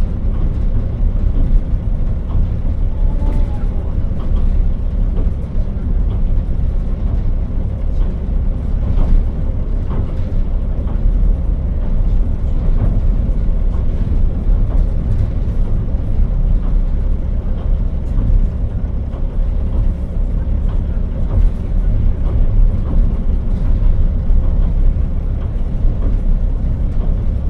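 JR Hokkaido KiHa 40 diesel railcar running along the line, heard from on board: a loud, steady low rumble of engine and wheels, with scattered sharp clicks from the wheels and rails.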